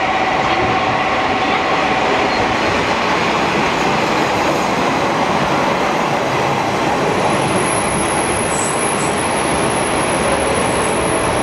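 KiHa 40 diesel railcar running into the platform: diesel engine and wheels on the rails make a loud, steady noise. Short, high wheel or brake squeals come in the second half as it slows.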